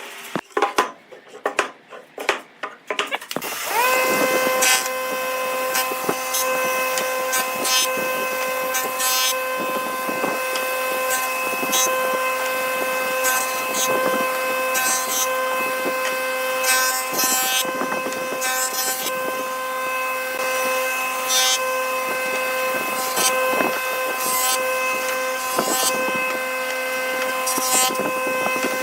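A few knocks, then an electric power tool starts about three seconds in. Its whine rises and settles into a steady running tone, with short rasps of the tool cutting into wood every second or two.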